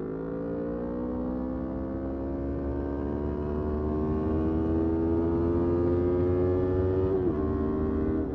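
Motorcycle engine pulling through a gear, its pitch climbing slowly, then dropping sharply about seven seconds in as it shifts up and settling at a steady note.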